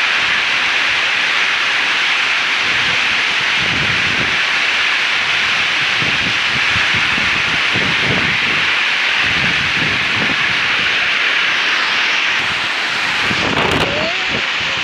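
Heavy rain pouring steadily, with gusts of wind buffeting the microphone from a few seconds in.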